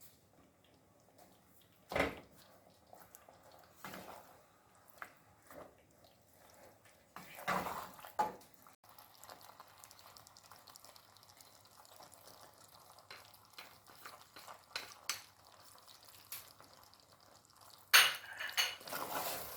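Cooking utensil clinking and scraping against a pan of Alfredo sauce, in scattered knocks and clatters with long quiet gaps between them. The loudest clatter comes near the end.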